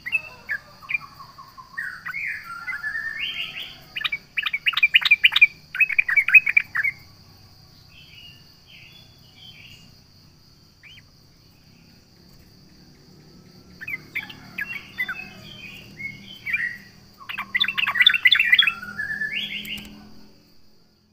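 Yellow-vented bulbul (trucukan) singing in two bursts of rapid, sharp, bubbling notes. The first lasts about seven seconds from the start, and the second begins about fourteen seconds in, with a quieter pause between.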